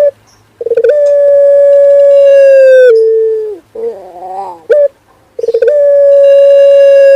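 Male puter pelung dove cooing: two long, drawn-out coos on one steady note, each opening with a quick stutter and dipping slightly in pitch at the end. A shorter wavering call comes between them.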